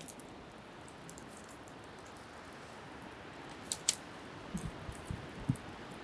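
Beach bonfire crackling with small high pops and a sharper double pop about two-thirds through, over a steady hiss of surf and wind. A few low thumps come near the end.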